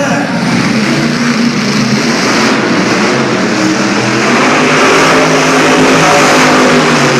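Monster truck engine revving hard and loud, its pitch shifting as the throttle works, growing louder over the last few seconds.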